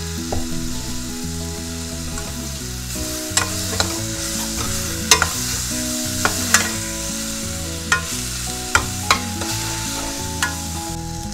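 Chopped tomatoes and onions sizzling in oil in a stainless steel frying pan while a metal spoon stirs them. The spoon clanks sharply against the pan several times.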